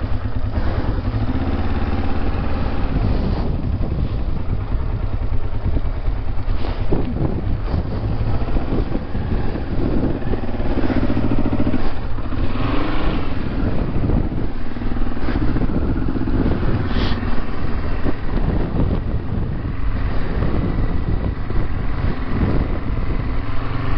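Honda CL450 parallel-twin motorcycle engine running, revved up and down several times while working over a rough trail.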